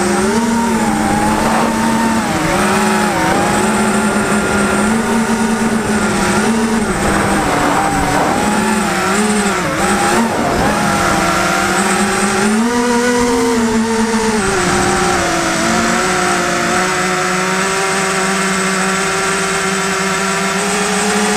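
FPV racing quadcopter's electric motors whining, the pitch rising and dipping again and again as the throttle changes.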